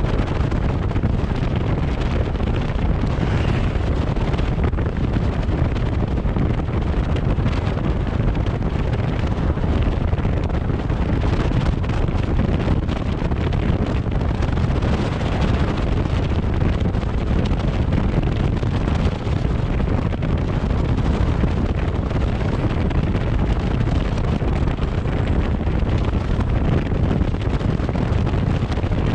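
Steady wind buffeting the microphone over the rumble of a moving vehicle on the road.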